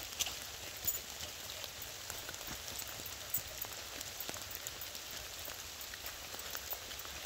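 Rain falling on the forest leaves: a steady hiss with many small drop ticks scattered through it.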